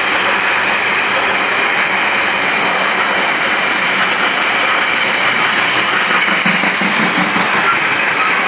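An intermodal container freight train's wagons running past close by: a loud, steady rolling rumble of wheels on rail.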